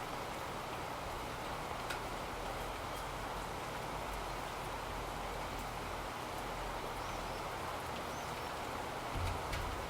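Steady rain hiss, with a few sharp clicks about two seconds in and again near the end.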